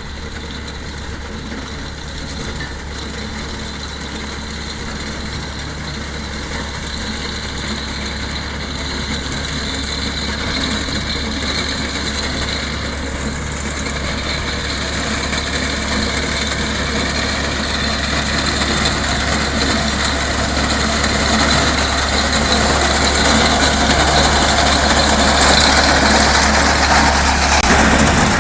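TAFE tractor's diesel engine running steadily while working a reaper attachment, growing gradually louder.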